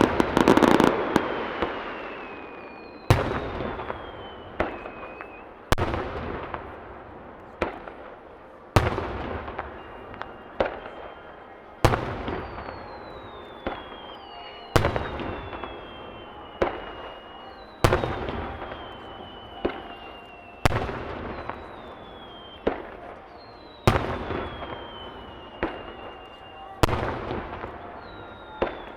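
Aerial firework shells bursting, with dense rapid bangs at the start, then a loud boom about every three seconds with smaller bangs between, each trailing off in a fading rumble. Several bursts are followed by a whistle falling in pitch.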